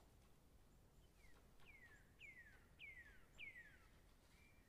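Faint bird calls: a run of about five clear whistles, each sliding down in pitch, roughly one every half second, starting about a second in.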